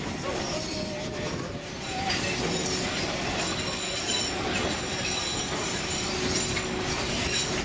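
Narrow-gauge tourist train running along the track, its wheels rumbling on the rails, growing louder about two seconds in, with a high wheel squeal from the rails joining about three seconds in.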